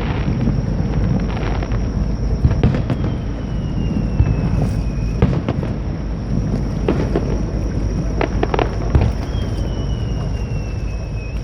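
Fireworks exploding: scattered sharp bangs and crackles over a steady low rumble. Two whistling shells glide slightly down in pitch, the first ending in a bang about five seconds in and the second at the very end.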